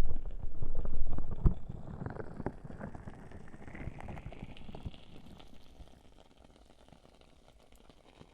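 Muffled rubbing and pressing on a binaural microphone's ears, loud and crackly in the first couple of seconds and fading away over the next few. Faint crackling ticks remain after it fades.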